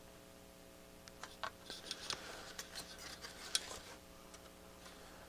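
Faint scattered clicks and scraping of multimeter probes being set against parts on a circuit board, busiest through the middle, over a low steady electrical hum.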